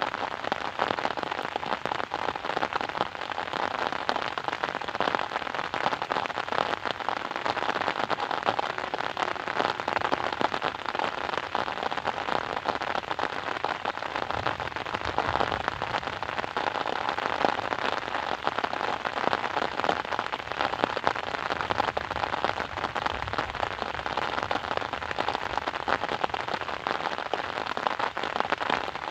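Steady rain falling, a dense, unbroken patter of many small drops hitting a surface.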